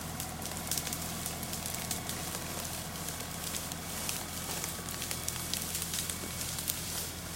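Compact tractor's diesel engine idling steadily, with irregular crackles and snaps over it.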